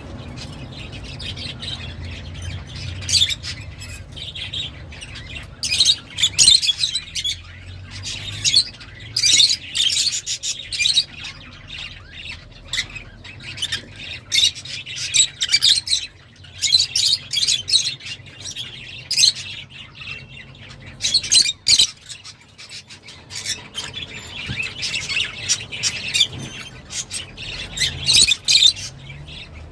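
Lovebirds calling in flurries of sharp, high-pitched chirps and squawks, with short lulls between bursts, over a faint low steady hum.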